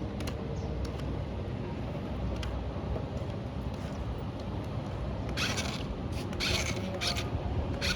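Remote-control toy tractor running, a steady low mechanical hum with three short rasping scrapes in the second half, the first about five seconds in.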